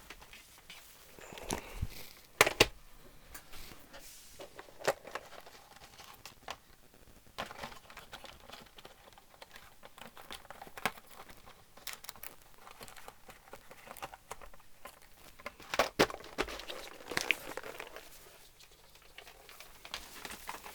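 Rustling and crinkling with scattered small clicks and knocks, the sound of small parts being sorted and handled on a workbench. The loudest knocks come about two and a half seconds in and again near sixteen seconds.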